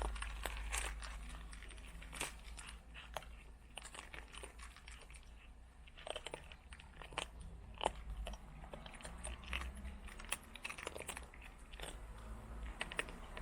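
Cat crunching and chewing dry food from inside a bag, a quick irregular run of small crunches, with the bag rustling now and then.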